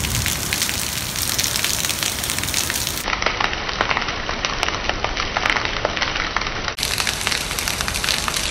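Torrential downpour: heavy rain pouring steadily, with a dense crackle of drops spattering on nearby surfaces.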